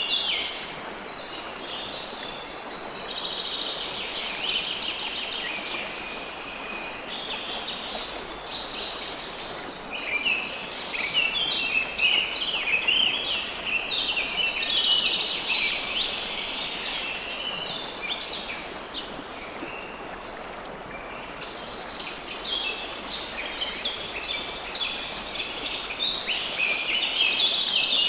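River water flowing steadily, with many small birds chirping over it in busy bouts that swell and fade.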